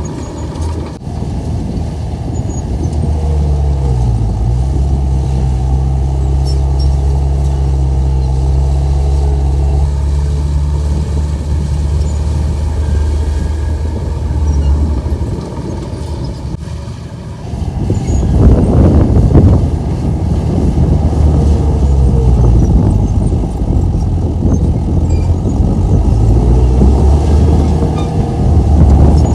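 Komatsu bulldozer's diesel engine working under load. The engine note dips and recovers several times, and it grows louder and rougher for a couple of seconds a little past the middle.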